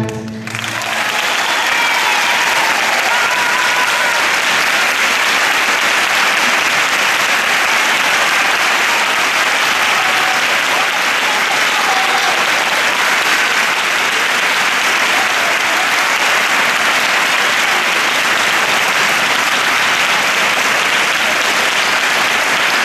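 A large audience applauding steadily. It starts as the music breaks off in the first half-second.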